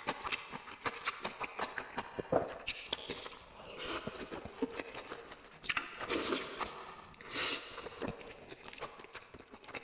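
Close-miked wet chewing and lip smacks of a person eating a boiled dumpling dipped in sauce, many short sharp clicks, with a few longer, louder hissing bursts around the middle.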